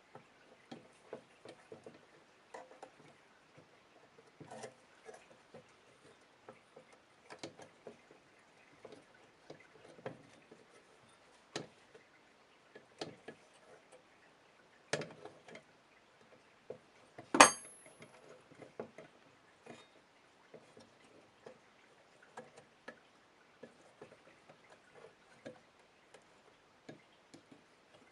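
Irregular light clicks and taps of metal parts and tools being handled while an old vintage scale is taken apart, with one loud metallic clank that rings briefly about 17 seconds in.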